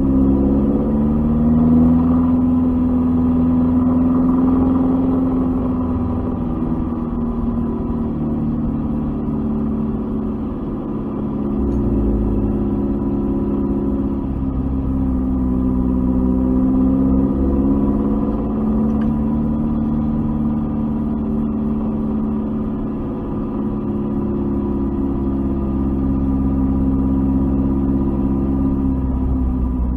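Lancia Fulvia's narrow-angle V4 engine running at low revs as the car rolls slowly, its pitch rising and falling gently, heard from inside the cabin.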